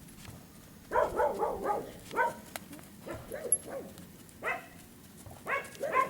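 An animal calling again and again in short, pitched, whining calls, asking to be fed.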